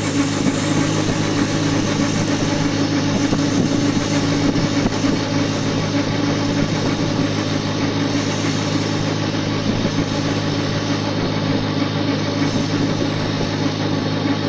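A steady mechanical hum, like an engine running, with no change in pitch or level.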